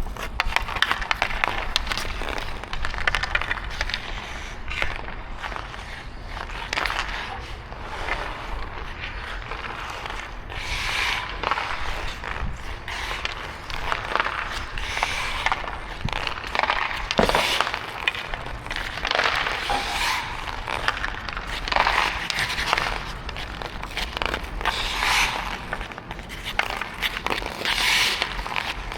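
Ice skate blades scraping and carving on rink ice in repeated hissing strokes every second or two, with scattered sharp clicks.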